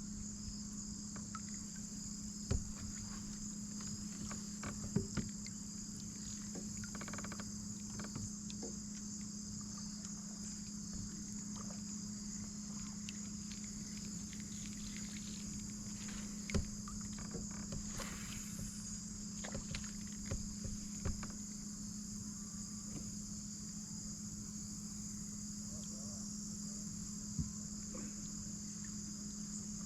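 Steady chorus of insects, a continuous high shrill, over a low steady hum, with a few faint scattered knocks.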